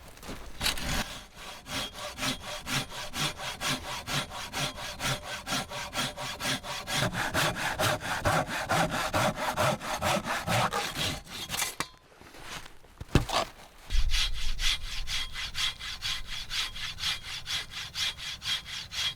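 Hand saw cutting through wood in quick, even strokes, about four a second. It stops for about two seconds near the middle, with a single knock, then saws on.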